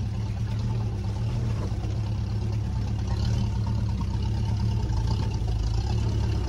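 Land Rover 4x4 engine running steadily under way, heard from inside the vehicle as a low, even drone on an unpaved forest track.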